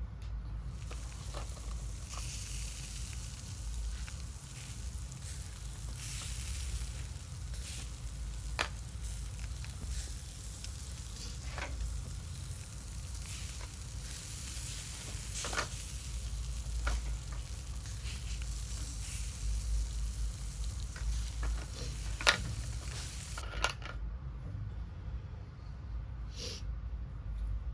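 Steady frying sizzle with scattered light clicks of a utensil against a small pan. The sizzle cuts off suddenly near the end.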